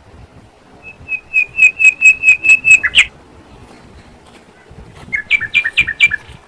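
A bird calling in two quick runs of sharp chirps: about nine notes over two seconds, then after a pause about five more near the end.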